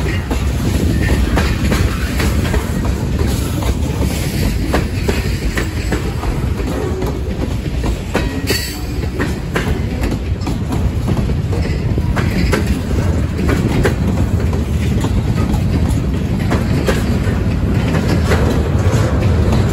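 A freight train rolling past: a steady low rumble with the wheels clicking over the rail joints.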